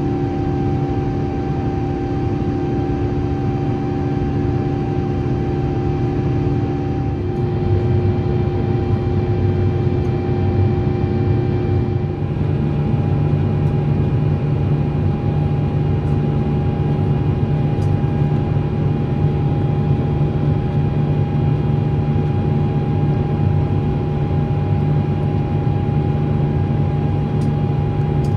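Steady in-flight cabin noise of an Airbus A350-900 airliner, its Rolls-Royce Trent XWB engines and airflow giving a loud even rush with several steady humming tones. The hum shifts slightly about 7 seconds in and again about 12 seconds in.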